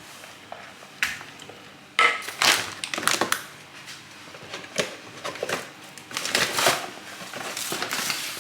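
Irregular crunching and crackling, a quick run of crushing and scraping noises that starts about two seconds in and comes in uneven bursts.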